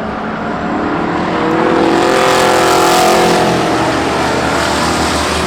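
Engines of trucks racing in an enduro, with one passing close by: its engine tone swells to its loudest about halfway through and then drops away.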